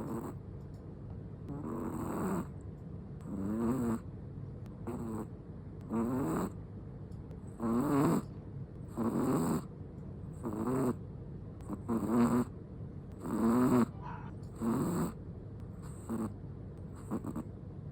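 A Chihuahua snoring in its sleep: a rasping, wavering snore on each breath, about a dozen in all, spaced a second or two apart.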